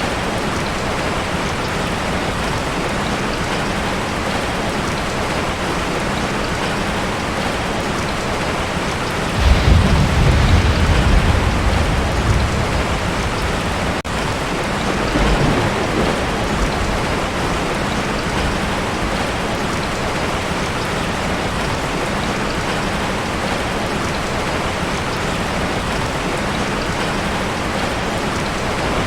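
Heavy rain falling steadily on a tin roof. A low roll of thunder rumbles about nine seconds in and lasts a few seconds, with a weaker rumble a few seconds later.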